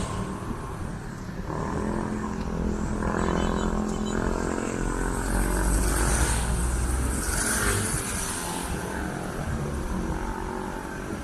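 City street traffic: motor vehicles driving past, with an engine hum through the first half and a steady low rumble throughout.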